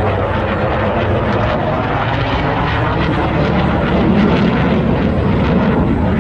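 Airplane engine noise from an aircraft flying past at an air show display: a loud, steady rush.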